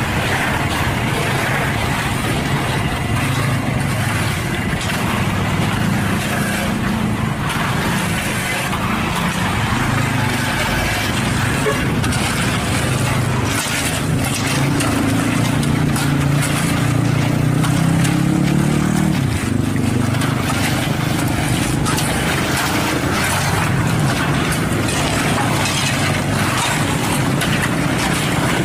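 Diesel engine of a HINO cement mixer truck running steadily under load; its revs climb gradually from about halfway through, then drop suddenly about two-thirds of the way in.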